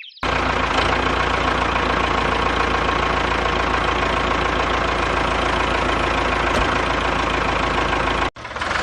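Steady engine-like running with a low hum, starting abruptly and cutting off suddenly near the end.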